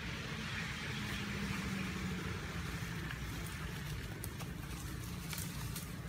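A motor engine running steadily with a low rumble, and a hum that holds from about half a second to two seconds in; faint clicks scattered through.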